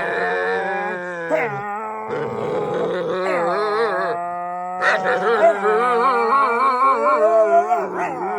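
Pit bull howling and groaning in long, unbroken calls whose pitch wavers up and down like a revving dirt bike, loud, growing louder and more wobbly about five seconds in.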